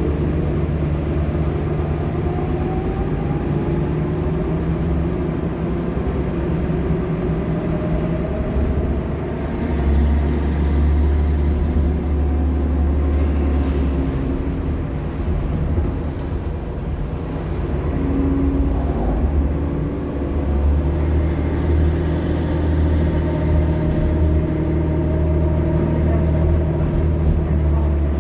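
Onboard a Nova Bus LFSA hybrid articulated bus as it pulls away twice: its Cummins ISL9 diesel and Allison hybrid drive run with a rising whine. Each time a thin, high-pitched squeal rises, holds and then falls away.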